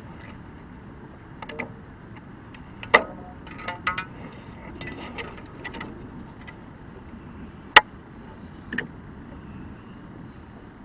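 Fishing gear being handled aboard a kayak: an irregular run of sharp knocks and clicks, the loudest about three seconds in and again near eight seconds, over a steady background hiss.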